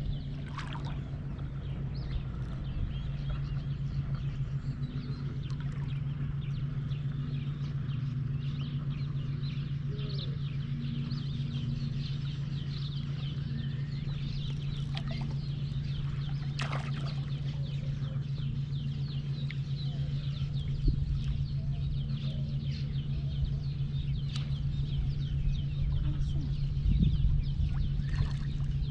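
Birds calling and chattering over a steady low hum, with a couple of brief knocks near the end.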